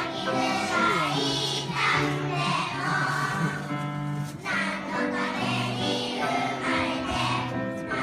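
A kindergarten class choir of young children singing a song together.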